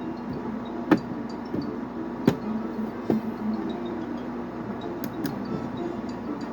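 A small electric motor whirring steadily, with sharp clicks and knocks now and then.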